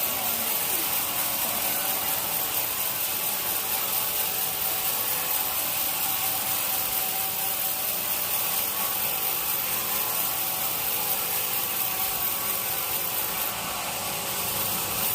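Sawmill saw cutting through a teak log, a steady, unbroken sawing noise that dips slightly near the end.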